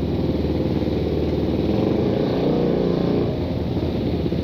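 Suzuki Satria FU 150's single-cylinder four-stroke engine running through a gutted ('bobok') exhaust while riding, the revs rising and falling back once about halfway through.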